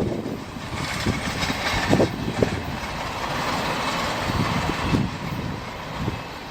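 CSX train cars rolling across a bridge, with irregular knocks of the wheels over rail joints. It fades away near the end as the train passes.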